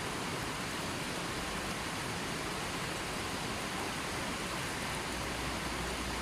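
River water flowing steadily, a continuous even rush with no single splashes standing out.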